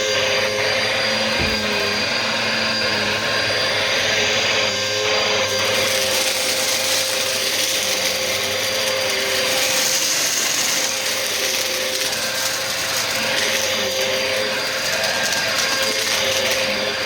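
Bissell vacuum cleaner running steadily: a motor whine over a rush of air. A short knock comes about a second and a half in, and the airflow hiss turns brighter and harsher about five and a half seconds in.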